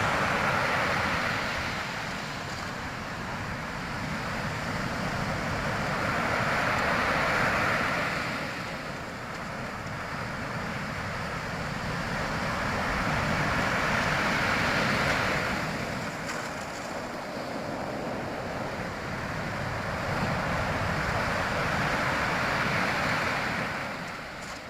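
Ocean waves washing in: a rushing noise that swells and fades about every seven to eight seconds.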